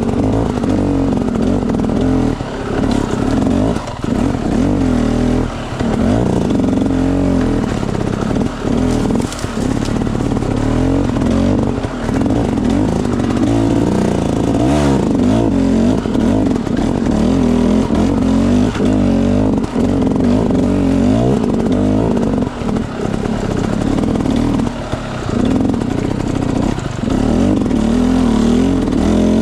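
Enduro dirt bike engine running under load on an off-road trail, its pitch rising and falling with the throttle and briefly dropping off every few seconds.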